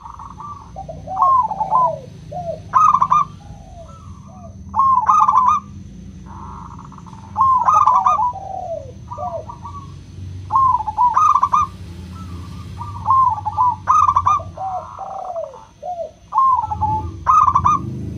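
Zebra dove (local perkutut) singing its staccato cooing song: short phrases of quick rising and falling coos repeated every second or two, some overlapping.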